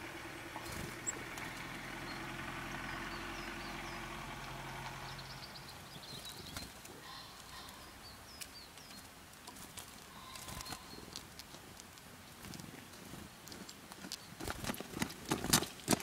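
Faint, short, high chirps of small garden birds scattered through the middle. They sit over a low steady hum with a fast flutter for the first few seconds, and a run of sharp clicks and knocks comes near the end.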